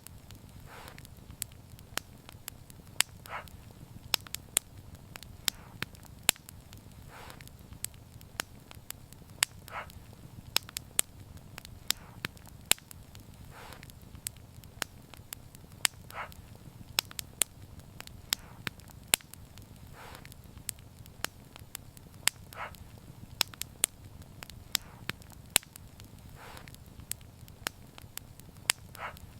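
Wood fire burning, crackling with many sharp pops several times a second over a steady low rumble of the flames, with short hisses every few seconds.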